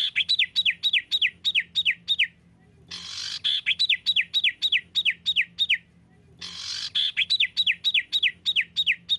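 Songbird song played as a masteran training recording: a rapid run of about eight sharp whistled notes, each sliding down in pitch, delivered three times with short pauses between, each run preceded by a brief hiss.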